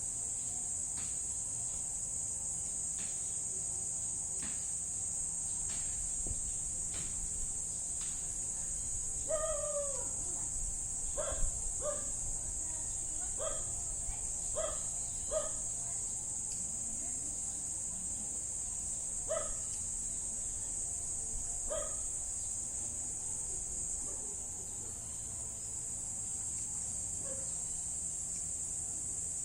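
Crickets chirping in a steady, high-pitched chorus. A dog barks about eight times, starting about nine seconds in and stopping some twelve seconds later.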